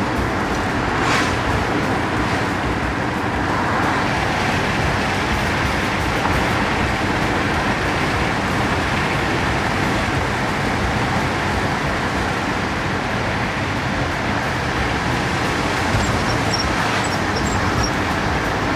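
1969 Nissan Cedric Wagon 6's L20A straight-six engine running steadily while the car drives along, with even road and tyre noise.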